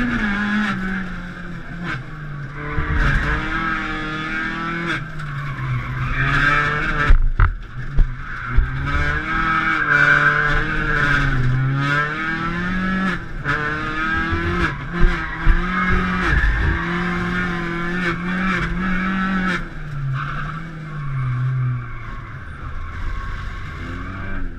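Rally car's engine heard from inside the stripped, roll-caged cabin, revving up and dropping back again and again as it is driven hard through gears and corners, with tyres squealing. A few sharp knocks come about seven to eight seconds in and again about fifteen seconds in.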